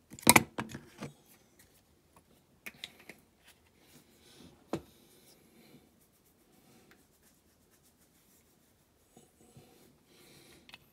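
Small clicks, knocks and scraping of hands handling and fitting parts on a die-cast toy van, with a burst of sharp clicks at the start and quieter fiddling after it.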